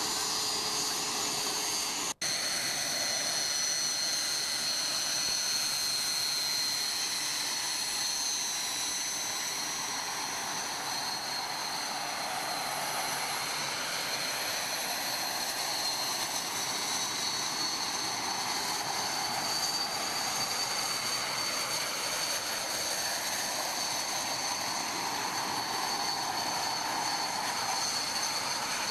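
Jet aircraft engine noise: a steady rushing roar with a high whine over it, swelling and easing slowly. The sound drops out for an instant about two seconds in.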